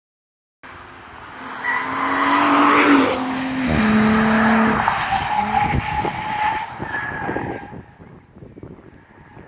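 2017 Audi S5 Coupé's 3.0 TFSI turbocharged V6 accelerating hard toward and past, its engine note climbing and stepping down in pitch once near the middle, then fading away. The sound cuts in abruptly less than a second in.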